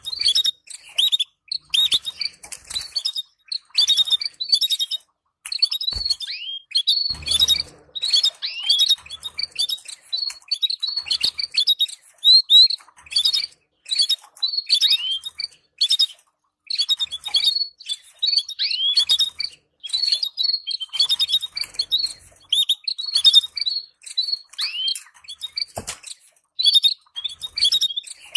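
Canaries chirping and calling in quick, short phrases of high, quick notes, many sweeping downward, with brief pauses between bursts. A short rustle, like wings fluttering, comes about seven seconds in.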